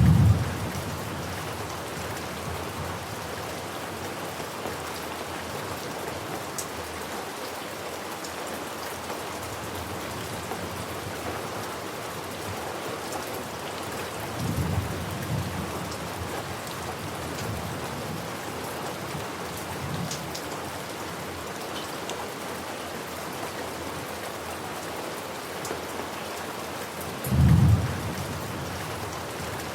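Steady rain with rolls of thunder: a deep rumble right at the start, a softer one about halfway through, and another strong rumble near the end.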